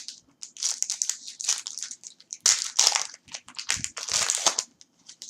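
A trading-card pack wrapper being torn open and crinkled by hand, in irregular bursts of high, papery crackle, loudest about halfway through and again near four seconds in.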